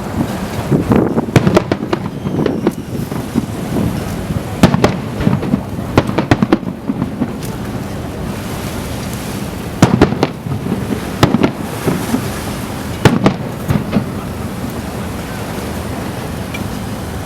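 Aerial fireworks shells bursting in quick volleys of sharp bangs, with short lulls between the volleys. The bursts stop about fourteen seconds in, leaving steady background noise.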